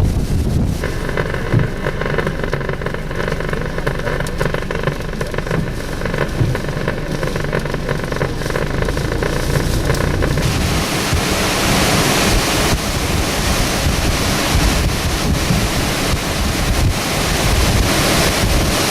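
Strong tropical-storm wind buffeting the microphone, a dense steady rumble with a hiss over it. A few faint steady tones sit underneath until about halfway. The hiss then grows brighter and a little louder.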